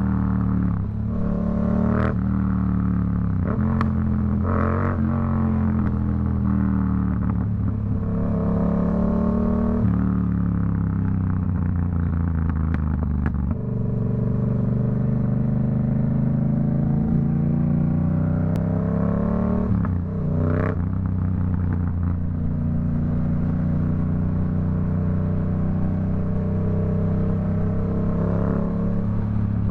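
Yamaha MT-07's 689 cc CP2 parallel-twin engine through a Black Widow aftermarket exhaust, ridden through the gears with the pitch rising under throttle and dropping at each shift and roll-off. Several sharp exhaust pops crack out on deceleration, the loudest about 20 seconds in.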